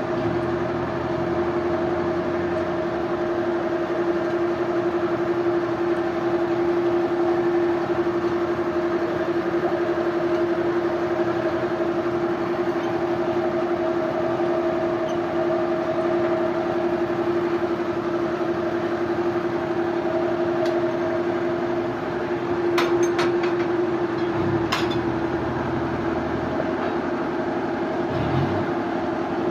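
Sawmill machinery running steadily with a constant hum, with a few short sharp knocks about 23 and 25 seconds in.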